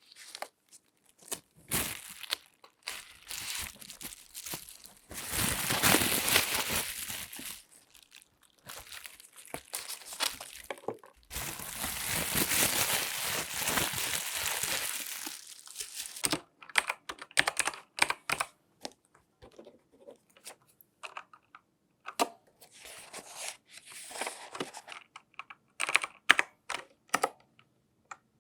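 Close-up handling sounds from gloved hands: crinkling and rubbing in two longer stretches, one about five seconds in and another from about eleven to sixteen seconds, with scattered taps and clicks between and after them.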